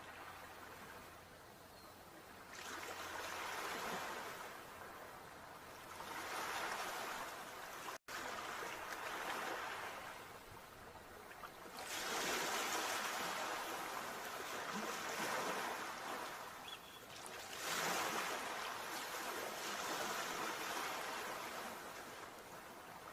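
Sea waves breaking on a shore: a wash of surf that surges and falls back every few seconds, with a momentary dropout about a third of the way through.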